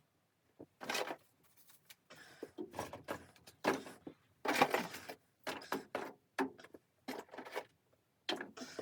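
Irregular rustling and knocking handling noises close to the microphone, in short bursts with gaps between them.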